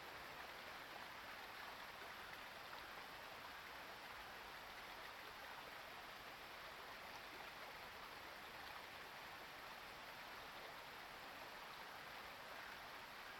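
Near silence: a faint, even background hiss with no distinct calls or other events.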